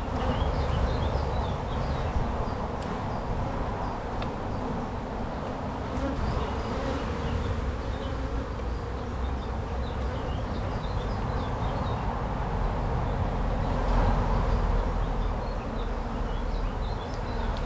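Honey bees from an opened hive buzzing in a dense, continuous drone.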